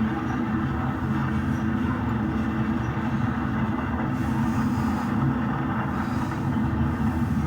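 HO scale model train of a BNSF GP35 diesel locomotive running on the track, giving a steady engine-like hum with a hiss over it.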